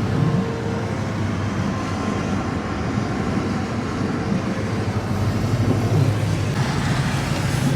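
Steady engine drone and road rumble heard from inside a truck's cabin while driving.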